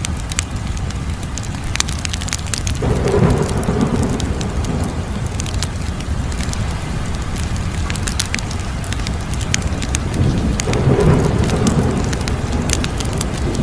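Wood fire crackling, with frequent sharp pops and snaps over a steady low rumble. The rumble swells up about three seconds in and again near the end.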